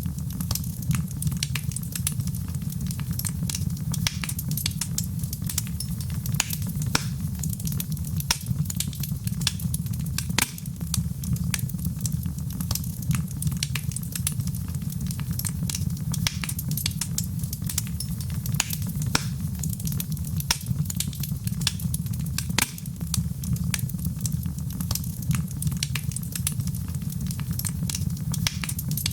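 Wood fire crackling in a fireplace: many sharp, irregular pops and snaps, several a second, over a steady low rumble.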